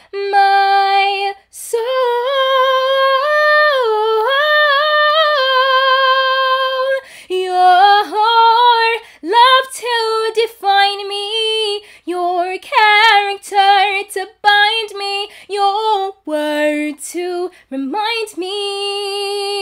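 A woman singing unaccompanied, holding long notes with vibrato and moving through sliding melodic runs between them.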